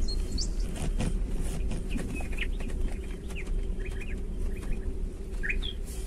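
Several short, high bird chirps over the steady low rumble of a vehicle driving slowly on a rough dirt forest track, with a few knocks about a second in.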